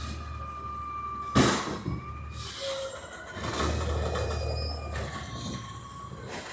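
Trash truck working nearby: its engine runs with a low hum and a steady whine, a sudden hiss about a second and a half in, and the engine swells louder for a couple of seconds past the middle.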